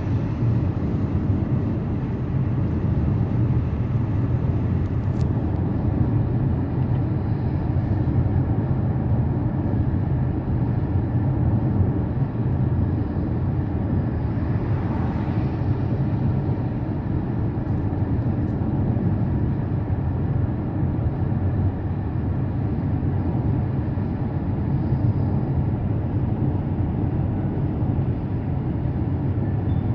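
A car cruising on an expressway, with a steady low rumble of tyre and engine noise. About halfway through, a brief hiss swells and fades.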